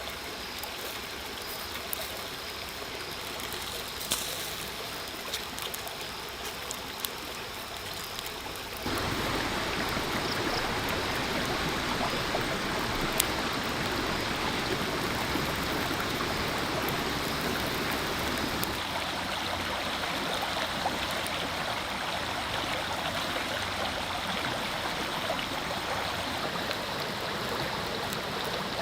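Water of a stream running steadily, with a few light clicks. About nine seconds in it suddenly becomes louder and fuller, and it shifts again a little later.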